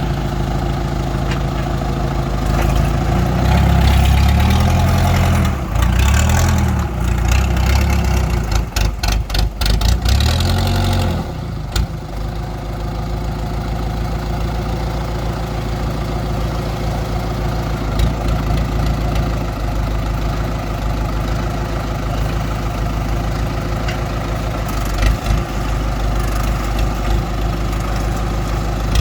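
Engine of a homemade loader built from an old Rino truck, running steadily and revved up and down a few times in the first ten seconds or so, with a short spell of rattling clatter in between, then settling back to a steady idle.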